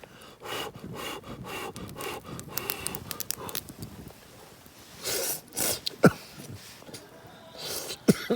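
A person slurping noodles with sharp breaths and sniffs through the nose. There is a long slurping stretch first, then short breathy blasts about five seconds in and again near the end.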